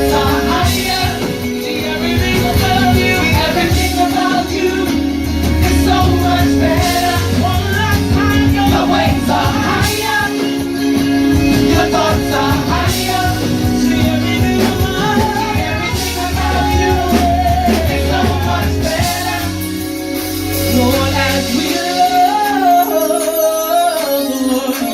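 Live gospel worship music: a worship team singing over a full band with bass and steady chords, the bass dropping out about three seconds before the end.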